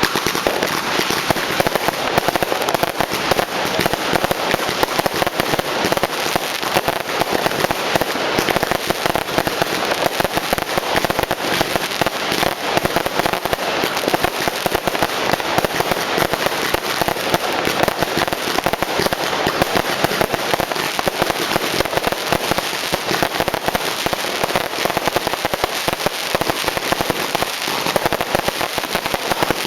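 Fireworks and firecrackers going off in a dense, unbroken crackle of rapid pops and bangs, many a second, at a steady loud level throughout.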